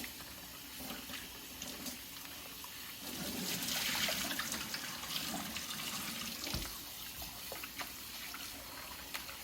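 Cool tap water running into a kitchen sink over raw chicken tenders being rinsed, the stream growing louder for a few seconds midway. A single knock about two-thirds of the way through.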